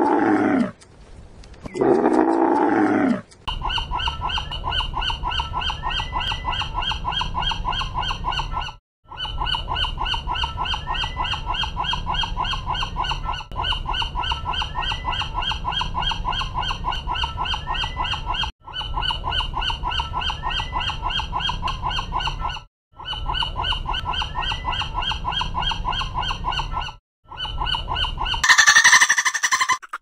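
A dromedary camel gives two long bellows that fall in pitch. Then seagull calls follow as a fast pulsing call, repeated in runs of a few seconds with brief breaks. Near the end, high-pitched dolphin whistles begin.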